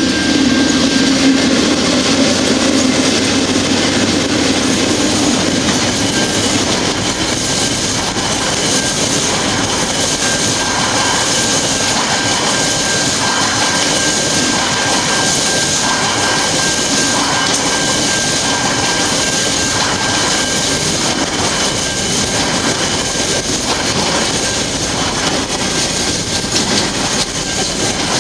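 Freight train passing close by: the diesel locomotives' engines are loudest in the first few seconds, then a long string of freight wagons rolls past with a steady rumble and a regular clatter of wheels about once a second.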